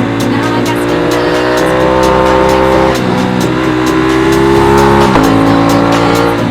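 Aprilia RS660 parallel-twin engine pulling hard, its pitch climbing and then dropping at gear changes about three and five seconds in.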